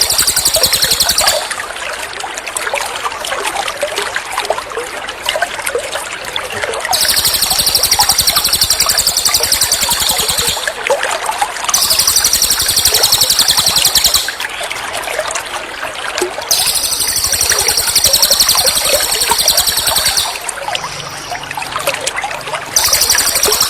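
A songbird's rapid high-pitched trill, the 'tembakan' song type, in repeated bursts of two to four seconds, five times, over steadily trickling water.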